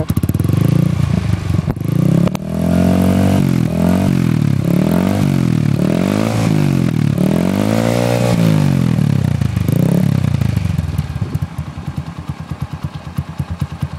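TVS Apache RTR 180's single-cylinder four-stroke engine, breathing through a Joel's aftermarket exhaust, idling and then blipped repeatedly, rising and falling in pitch about seven times, before settling back to idle near the end.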